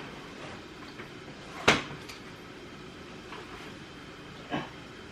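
A sharp click or knock about a second and a half in and a softer one near the end: parts of a baby stroller's frame being handled while it is worked into its folded position.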